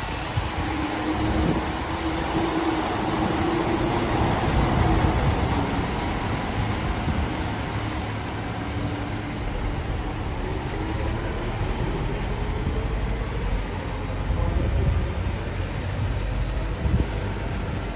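Train rumbling steadily through the station, with a faint pitched tone that rises over the second half.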